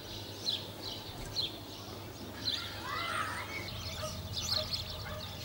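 Small birds chirping in short, repeated high notes, with a louder, lower call of sweeping rising notes about three seconds in.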